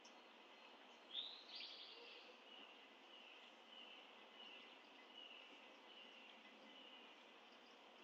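Faint bird calls over a steady outdoor hiss: a rising, rough call about a second in, then a string of short, slightly falling notes repeated about one and a half times a second.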